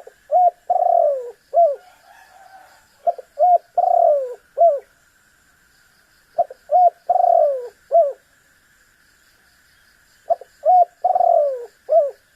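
Spotted dove (tekukur) cooing: four repeated call phrases about three seconds apart, each a few short coos with one longer, falling coo in the middle. A steady faint high hiss and light ticking run underneath.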